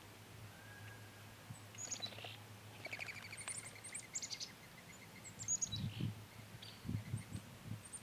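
Backyard songbirds chirping and calling, with short high chirps and a quick run of repeated notes about halfway through. A few soft low thumps come near the end.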